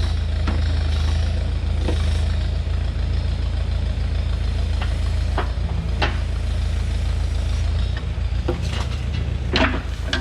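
Tractor backhoe engine running steadily at low revs, with a few sharp knocks and clanks, the loudest near the end.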